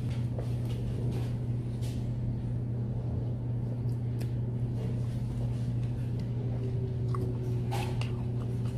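Steady low background hum with a few soft clicks and small chewing sounds as cherry tomatoes are eaten from a plastic cup.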